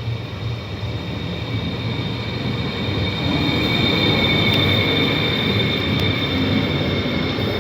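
A train running past, its rumble growing louder about three seconds in, with a steady high metallic squeal from the wheels on the rails.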